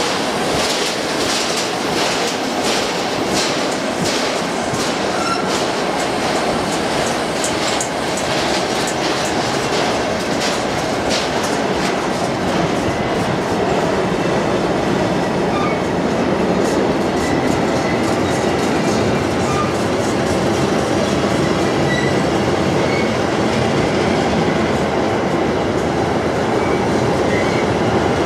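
Empty freight wagons rolling past, flat wagons and then double-deck car-carrier wagons: a steady loud rumble of wheels on rail, with rapid clickety-clack from wheels over rail joints through the first dozen seconds and a few faint, brief wheel squeals later.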